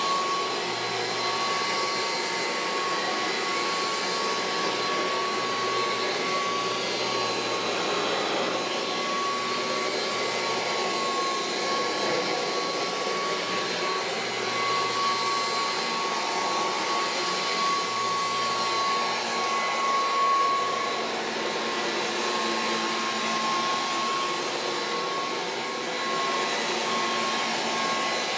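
Kirby Heritage II upright vacuum cleaner running steadily while vacuuming: a constant rush of air with a steady whine over it.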